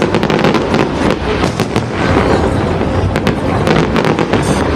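Fireworks display going off, a dense run of sharp cracks and bangs, many a second, over a steady low rumble.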